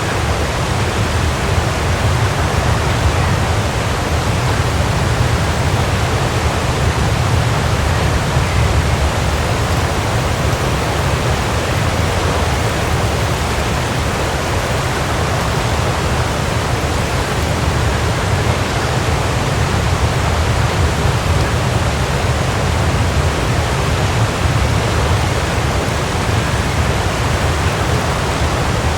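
Waterfall: water falling and splashing in a steady, unbroken rush, with a heavy low rumble beneath.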